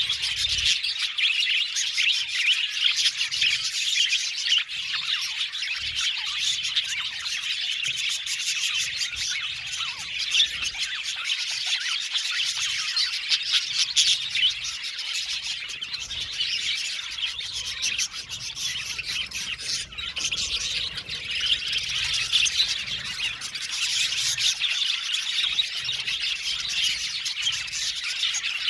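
A flock of budgerigars chirping and chattering continuously, many birds calling over one another, with occasional squawks.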